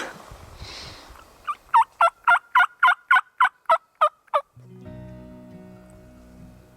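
A run of about eleven turkey yelps, evenly spaced at roughly three to four a second, each note dropping sharply in pitch. Music with steady held tones comes in just after they stop.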